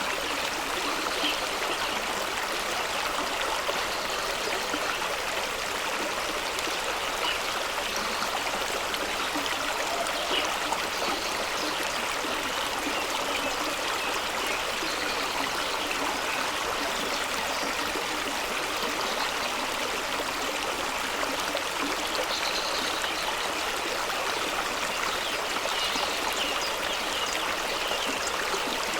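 Fast-running stream rushing and splashing over rocks, a steady water noise with small gurgles and splashes throughout.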